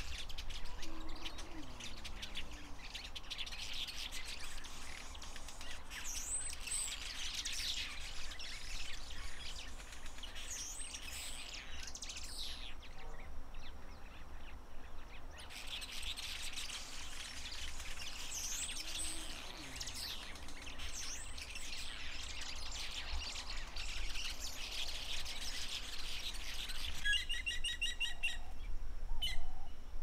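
Several wild birds chirping and calling together, a dense mix of quick chirps and short whistled glides that stops for a few seconds midway, then resumes. Near the end, one bird gives a fast, even run of sharp ticks.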